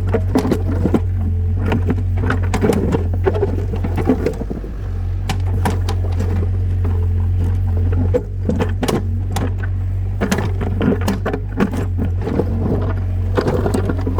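An engine running steadily as a low drone, with frequent irregular rattles and knocks over it.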